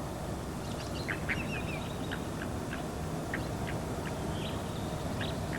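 Scattered short, high squeaks and chirps from animals, a dozen or so, over a steady low background rumble.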